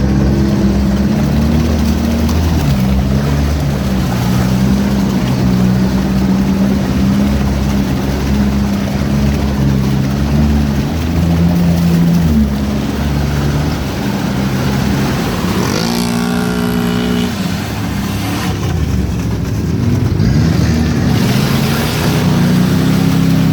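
Mud truck engine revving as it drives through mud, its pitch stepping up and down with the throttle. About two-thirds of the way in, a higher-pitched whine rises and holds for a second or two.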